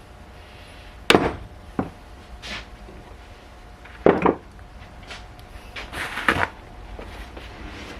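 Several sharp hammer blows at irregular spacing: single strikes about one and two seconds in, a quick pair about four seconds in, and a short cluster of knocks around six seconds.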